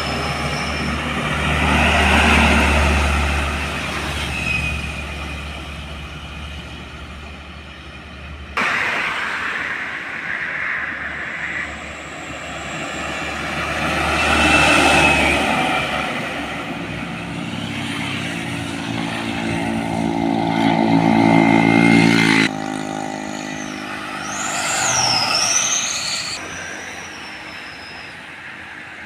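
Heavy diesel trucks passing on a road, engines running, heard in a few short clips that cut abruptly from one to the next. A high wavering whistle sounds near the end.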